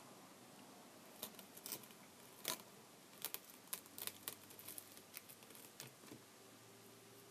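A run of small, sharp, irregular clicks and taps, as from plastic tablet parts and small repair tools being handled, starting about a second in and dying away near the end.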